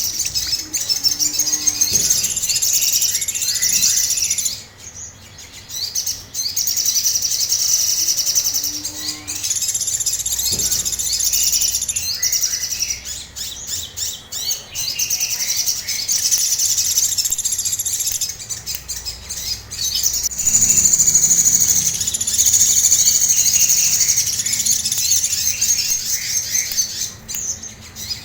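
A sogon (little spiderhunter) singing an agitated, high-pitched, rapid chattering song in phrases of a few seconds, with short pauses between them.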